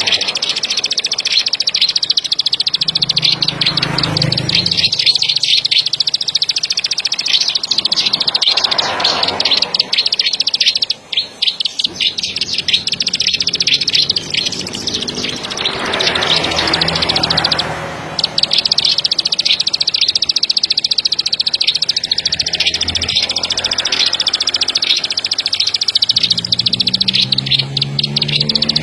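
Plain prinia singing: a long run of rapid, high, buzzy ticking notes repeated almost without pause, with a short break about eleven seconds in.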